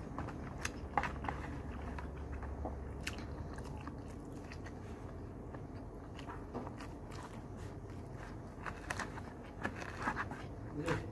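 A person eating close to the microphone: chewing and crunchy bites of a lunch-box meal with a fried pork chop, with scattered sharp clicks and a cluster of them near the end, over a low steady hum.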